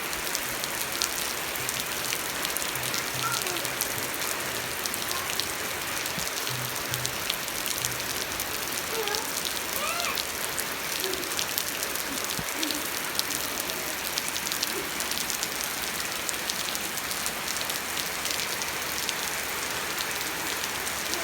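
Steady rain falling, with a dense patter of individual drop ticks over an even hiss.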